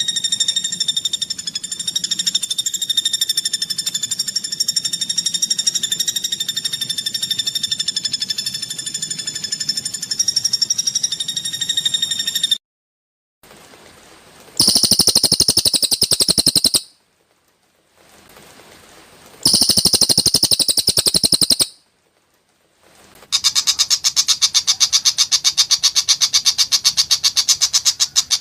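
Cucak hijau (greater green leafbird) giving harsh rapid-fire 'tembakan' calls. First comes a long, even buzzing trill of very fast pulses on one steady pitch. Then, after sudden cuts, three loud rattling bursts of very rapid notes follow: two of about two seconds and a last one of about five.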